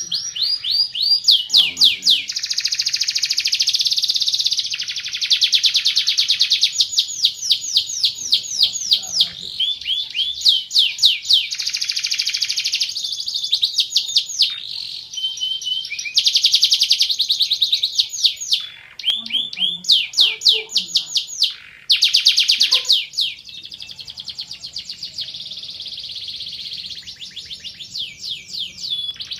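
Van Hesterling song canary singing a long, nearly unbroken song of fast trills and rapid repeated falling notes, with a couple of short breaks.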